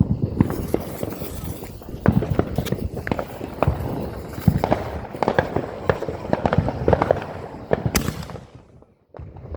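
Consumer fireworks going off: a rapid, irregular series of pops and bangs for about eight seconds, then dying away near the end.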